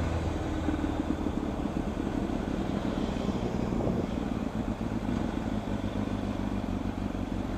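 Motorcycle engine running steadily with road noise, a low engine hum fading about a second in.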